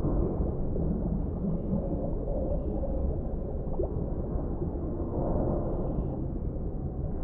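Underwater ambience: a steady, muffled low rumble of deep water, with no high sounds in it.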